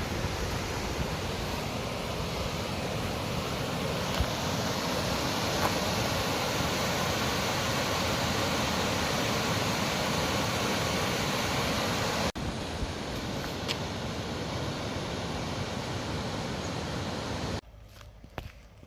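A steady, loud rushing noise with no clear pitch, briefly broken about twelve seconds in. It cuts off abruptly near the end, leaving a quieter background with footsteps.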